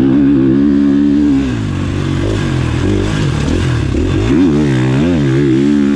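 Motocross bike engine running loud, its revs rising and falling again and again with the throttle, wavering quickly up and down through the middle.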